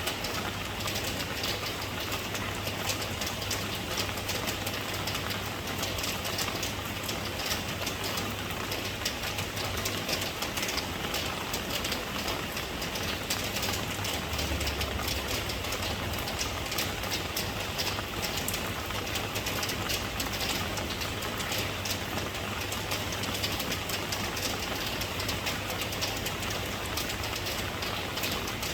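Steady rain: a dense patter of drops over an even hiss, with a steady low rumble underneath.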